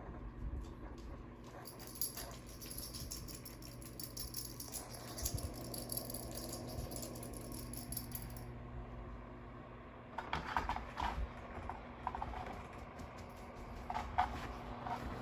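Dogs playing, with rattling and jangling for several seconds, then a few short bursts of dog noise about 10 and 14 seconds in. A steady low hum runs underneath.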